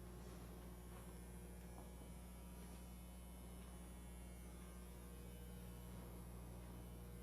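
Near silence, with a faint steady low electrical mains hum.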